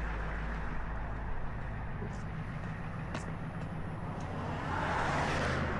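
Tow truck's engine idling steadily, with highway traffic going by; a passing vehicle swells louder near the end.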